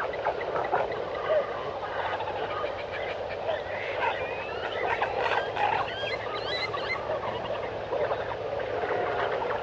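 Jungle ambience: a dense, steady chorus of frogs croaking and birds calling, with whistled, gliding bird calls thickest in the middle.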